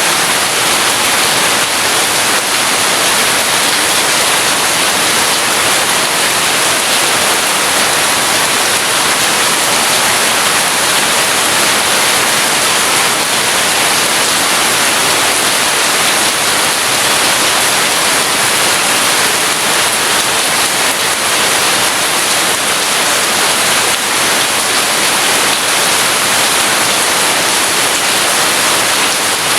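Heavy rain falling as a steady, dense hiss, with no thunder.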